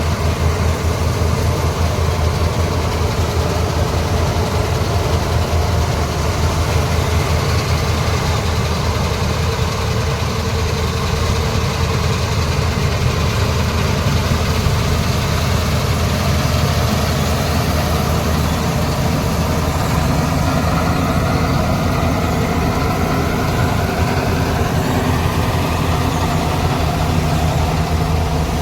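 Kartar 4000 combine harvester's diesel engine running steadily under harvest, with a slight rise in pitch over the last several seconds.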